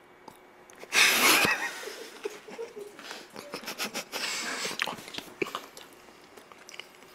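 Close-miked mouth and eating sounds: a loud breathy puff about a second in, then a run of crackles and clicks as chocolate is broken and chewed.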